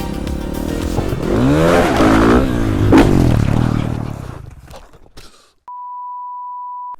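Motorcycle engine revving, its pitch rising and falling as it pulls away, with a sharp click about three seconds in, then fading out. Near the end a steady electronic beep, a censor bleep, sounds for over a second and cuts off suddenly.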